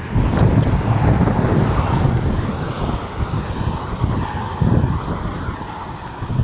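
A motor vehicle driving past on the road, its tyre and engine noise swelling just after the start and easing off over the last few seconds.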